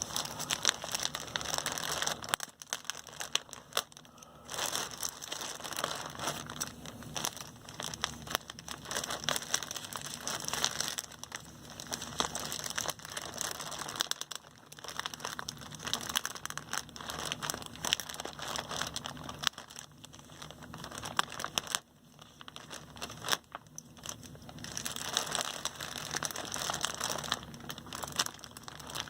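Packaging crinkling and rustling in dense crackly spells, with a few short pauses, as the bag of parts is cut open and handled.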